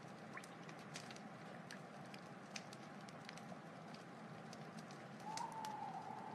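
Wood fire crackling, scattered sharp pops and ticks over a steady low hiss, with a thin whistling tone coming in about five seconds in.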